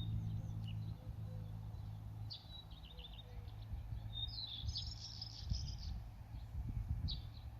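Songbirds chirping and trilling in short phrases, busiest in the middle of the stretch, over a low rumble that fades after the first second or two.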